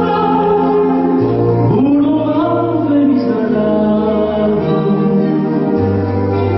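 A song: singing over an instrumental accompaniment of sustained chords and a bass line that changes note every second or so.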